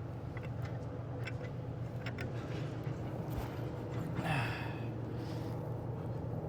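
Steady low hum under a few light clicks of handling parts, with one sharp breath or sigh about four seconds in.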